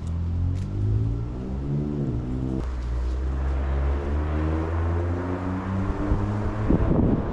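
A motor vehicle's engine running, its pitch rising and then dipping about two seconds in before settling into a steady hum. A brief crackle comes near the end.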